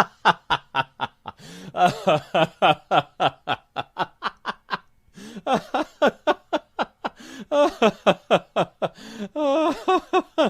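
A person laughing in quick snickering pulses, about four to five a second, in several runs broken by short pauses.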